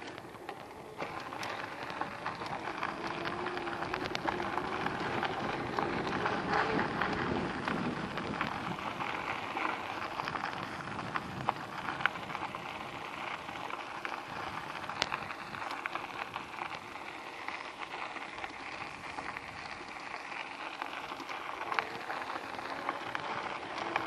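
Steady rushing noise of an e-bike ride, tyres rolling on the road and air moving past, with scattered small ticks.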